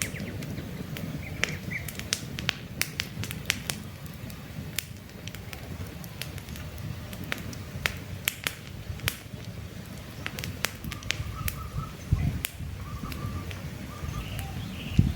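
Campfire crackling, with frequent sharp pops and snaps over a low steady rush of burning wood. Birds chirp in the background, with short trills in the last few seconds.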